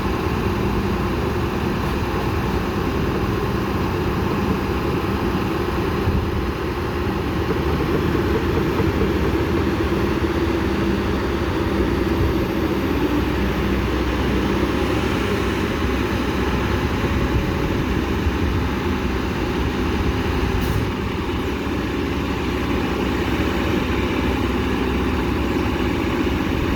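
Heavy diesel engine of a Kobelco SK210LC hydraulic excavator running steadily under load as it digs and loads dirt into a dump truck, with a low, even drone.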